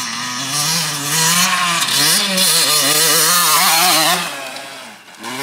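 Motocross bike engine revving under riding, its pitch rising and falling with the throttle, then dropping off sharply a little after four seconds in.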